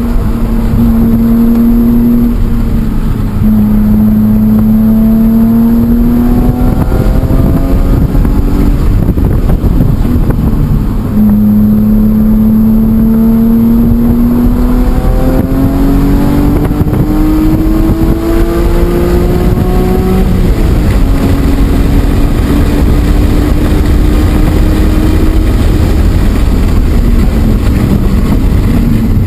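BMW E46 M3's inline-six engine pulling hard on track: its pitch climbs again and again, with a drop at each gear change, then holds and eases off near the end.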